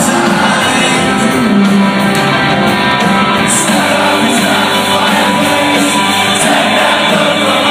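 A live rock band playing loudly with singing, echoing as it would in a large concert hall.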